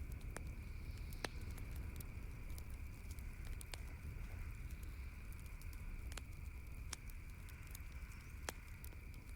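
Campfire crackling: scattered sharp pops, roughly one every second or so, over a steady low rumble and a faint steady hiss.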